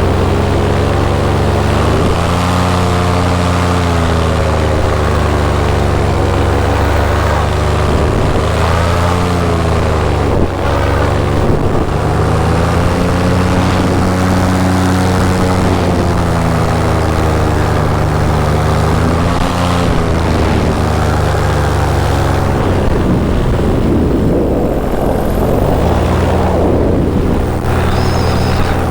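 Paramotor engine and propeller running continuously in flight, the pitch wavering slowly up and down.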